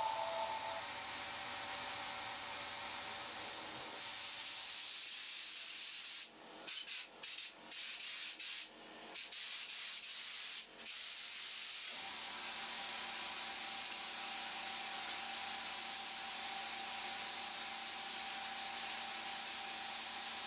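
Compressed-air paint spray gun hissing as it sprays primer onto car body panels. The hiss cuts off briefly several times, between about six and eleven seconds in, as the trigger is released and pulled again.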